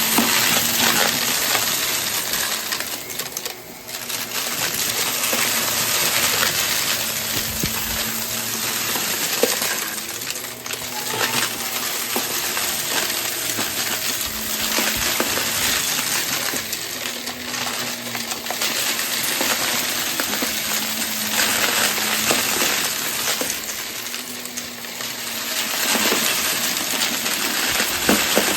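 Vacuum cleaner running steadily while sucking up a weighted debris mix, hard little pieces clinking and rattling as they are drawn in. The running dips briefly a few seconds in and again near the end.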